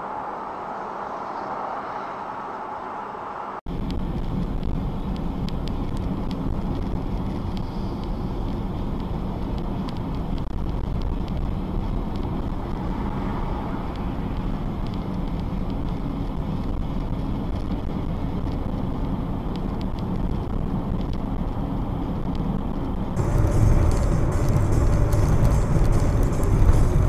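Vehicle driving noise picked up by dashboard cameras: steady engine and tyre rumble. It changes abruptly twice as the recording jumps to a different clip, the last part louder with a heavier low rumble and a steady tone.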